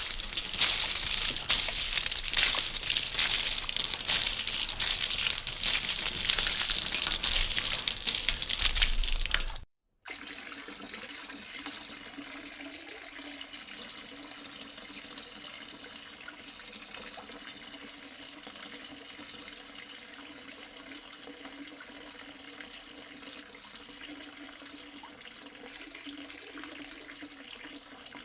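Loud running water, a steady hiss and splash, for about ten seconds, then a sudden cut to a second, much quieter steady flow of water with a faint low hum under it.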